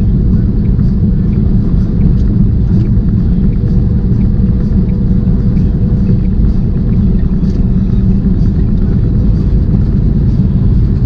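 Steady engine and road rumble heard from inside a tractor-trailer's cab while it drives at highway speed, with a thin steady hum above it.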